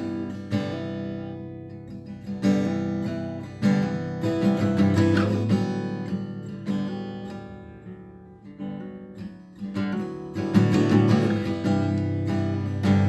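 Acoustic guitar strummed chords in an instrumental passage, each strum ringing out and fading, with a quieter stretch about eight seconds in before the strumming picks up again.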